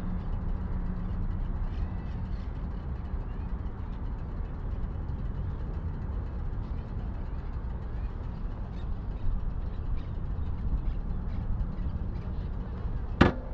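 Royal Enfield Meteor 350's single-cylinder 349 cc engine running with a steady low rumble, its engine tone fading after the first couple of seconds. A single sharp knock sounds just before the end.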